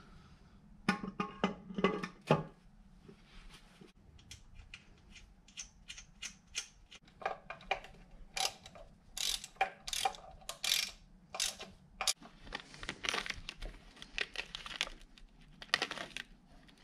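Hand work on an engine's parts: a run of short clicks, taps and clatters from tools and components being handled and fitted, with a louder rattle about a second in and busier clicking in the second half.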